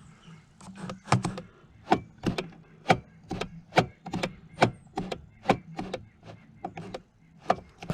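Repeated sharp metallic clacks, about three a second: the throttle being worked by hand and the carburetor slides of a three-carb snowmobile engine snapping shut each time.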